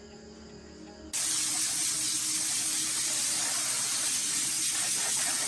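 Faint background music, then about a second in a sudden cut to a loud, steady spraying hiss.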